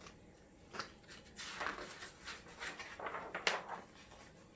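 Paper rustling as a picture book's page is handled and turned, with a couple of sharper flicks of the page.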